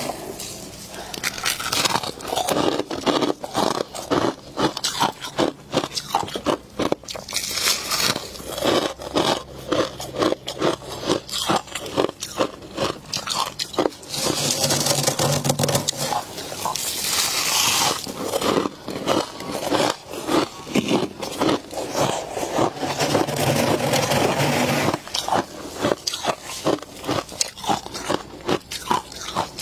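Built-up freezer frost crunching and scraping in quick, dense crackles. There are two stretches of steadier grating, about halfway through and again a little later.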